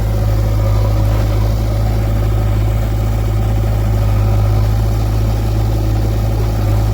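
Diesel engine of a backhoe loader or tractor running steadily at low engine speed, a loud, even low hum.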